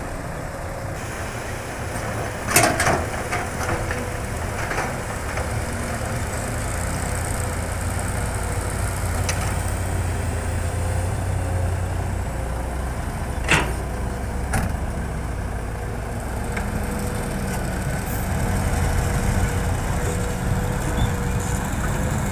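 Heavy diesel machinery running steadily during excavator loading of a dump truck, with a faint steady whine over the engine rumble. Sharp clanks cut through, the loudest about two and a half seconds in and two more around thirteen and fourteen seconds.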